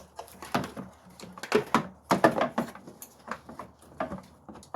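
Plastic engine air box being fitted back into the engine bay, with irregular knocks and clunks as it is handled into place.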